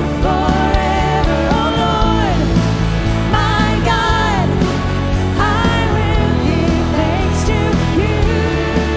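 Worship band music: a full band playing, with a held, gliding melody line over a steady beat.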